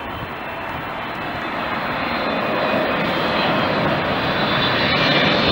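Airliner engines growing steadily louder as the plane approaches, a broad roar with a thin high whine coming in over the second half.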